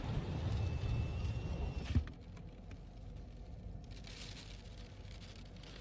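Storm wind rumbling on the microphone, ending abruptly with a sharp knock about two seconds in, followed by a quieter steady hiss of wind and rain with scattered light clicks.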